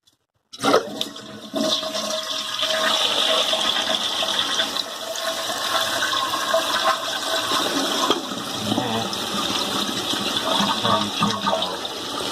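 Toilet flushing: water rushes into the bowl and the tank refills through a newly fitted Korky fill valve, starting abruptly about half a second in and running on steadily.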